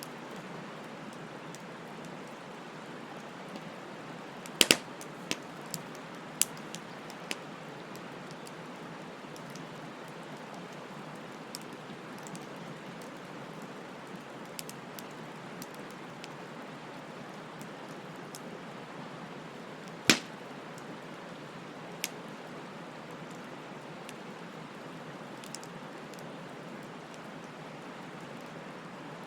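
Wood campfire burning: a steady hiss with sharp crackling pops from the burning wood, a cluster about five seconds in and one loud pop about twenty seconds in.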